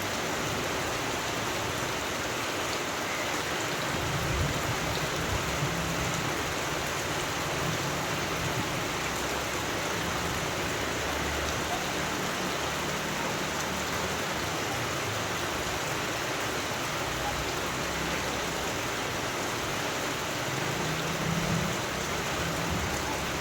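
Steady rain falling, an even hiss of drops, with a low rumble swelling now and then.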